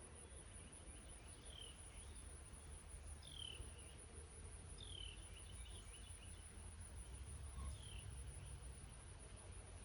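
Faint, steady light-rain ambience with a continuous high insect trill, while a bird gives four short, downward-sliding call notes spaced a second or two apart.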